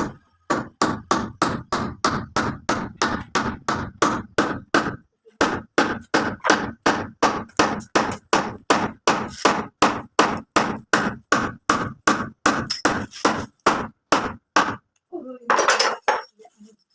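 Steady, rapid hammer blows, about three a second, with a short break about five seconds in. The blows stop near the end and a brief noisy rustle follows.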